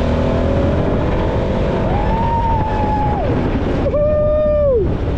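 Off-road UTV running, with wind on the microphone. A whining tone from the drive holds steady twice, each time for about a second, then drops off.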